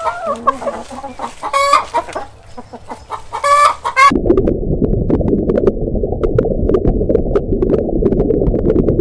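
Chickens clucking: short repeated pitched calls for about four seconds. Then an abrupt cut to a steady, loud low rumble with scattered faint clicks.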